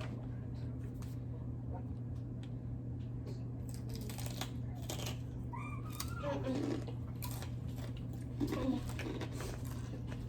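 Scattered crunching and chewing of spicy Takis rolled tortilla chips, heard as short irregular crackles and clicks, over a steady low room hum. There are a couple of brief, faint vocal sounds, one about six seconds in and another near the end.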